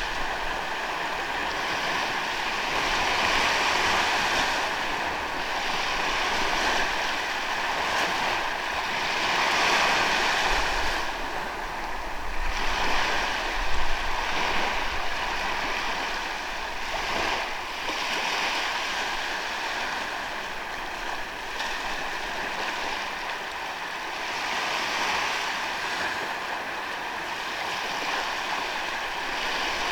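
Ocean waves washing onto a sandy beach, the surf swelling and easing every few seconds.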